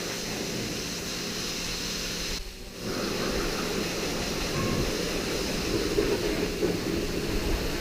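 Pressure washer spraying water with a steady hiss over a faint pump hum, stopping for about half a second a little over two seconds in, then spraying again.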